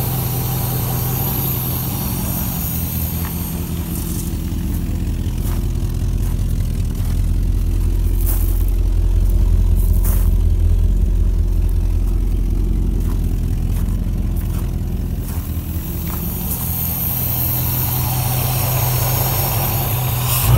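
Rover 3.5-litre V8 of a 1975 Rover P6 3500 idling steadily on rebuilt carburettors, running again after standing since 1989. The low exhaust note grows louder in the middle, close to the tailpipe.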